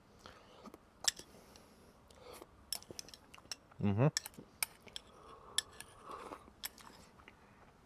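Scattered light clicks and taps of an eating utensil against a dish, as natto with soy sauce is stirred and eaten, with one short vocal sound about four seconds in.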